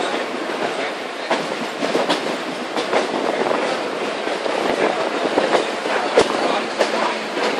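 An Indian Railways EMU suburban train running along the track, heard from aboard. Its wheels make a steady rumble with irregular clacks as they pass over rail joints and points.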